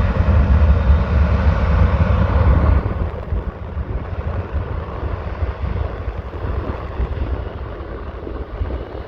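Jet airliner engines rumbling loudly on takeoff. The rumble drops off about three seconds in, then fades away steadily.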